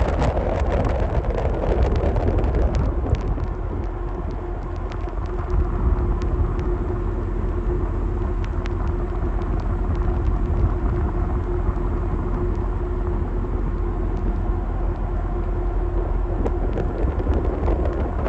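Wind buffeting the microphone, a heavy, fluttering low rumble, with a faint steady hum underneath.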